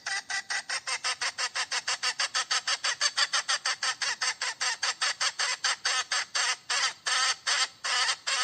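Hen calling in a rapid, even run of short clucks, about five a second, cutting off abruptly at the end. The uploader takes this call for a hen calling for a mate.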